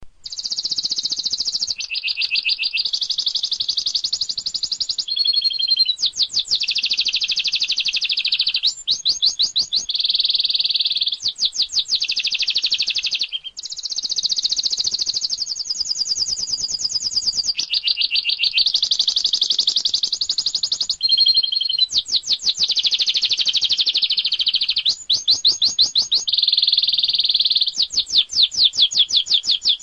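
Domestic canary singing a long, continuous, high-pitched song. Sustained rolling phrases alternate with fast trills of rapidly repeated notes, with only brief breaks between phrases.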